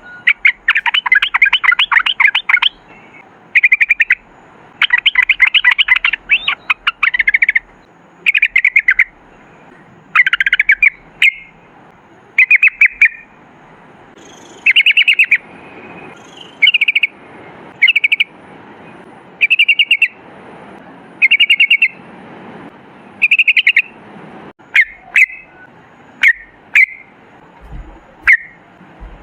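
Yellow-vented bulbul (trucukan) singing: loud, rapid bubbling phrases of quickly repeated notes, each about a second long, with pauses between them, the phrases turning shorter in the second half. A few sharp clicks come near the end.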